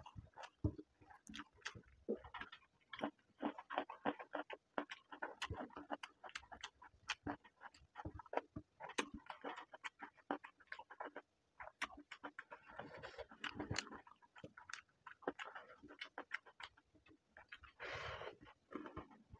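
Close-up wet chewing and lip-smacking of a mouthful of rice and egg curry eaten by hand, with irregular smacks and clicks several times a second. A brief louder hiss comes near the end.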